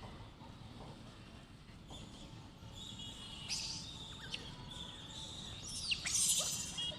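High-pitched animal calls over steady outdoor background noise: thin chirps from about halfway through, then a loud, shrill call that falls steeply in pitch about six seconds in.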